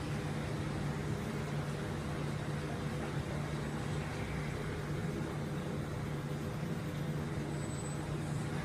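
Dexter T-600 18 kg stainless-steel front-load coin-laundry washer running mid-cycle: a steady mechanical noise with a low hum.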